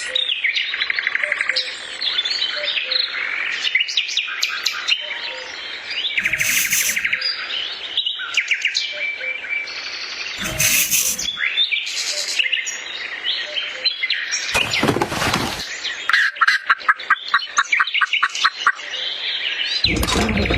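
Birds chirping and trilling, many calls overlapping, with a run of rapid repeated chirps about three quarters of the way through.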